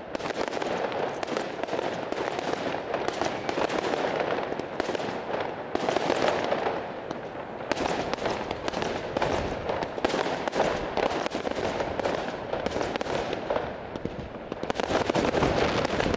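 Fireworks going off: a dense, continuous crackling of many quick pops, with louder swells of bursts every few seconds.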